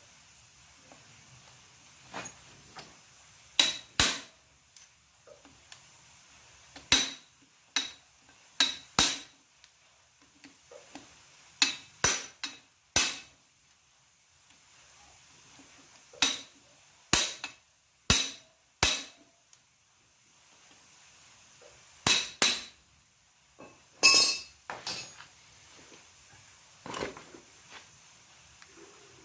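Metal tools and engine parts knocking and clinking during motorcycle engine assembly. The sharp taps come at irregular intervals, often in pairs, some ringing briefly; the loudest cluster is about three-quarters of the way through.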